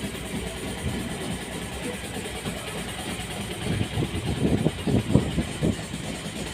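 A motor runs steadily at an idle-like pace, with a run of irregular low knocks and thuds between about four and six seconds in.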